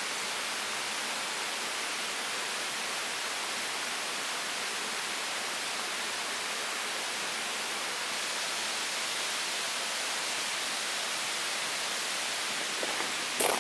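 Steady, even hiss of outdoor background noise, with one sharp knock near the end.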